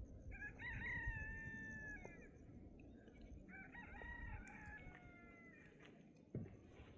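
A rooster crowing twice, each crow a long pitched call that falls away at the end. A short low thump follows near the end.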